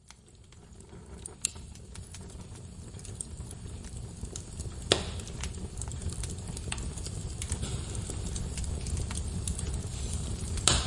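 Wood fire crackling in a fireplace, fading in from near silence over the first few seconds: scattered sharp pops and snaps, the loudest about five seconds in and again near the end, over a low steady rumble of burning logs.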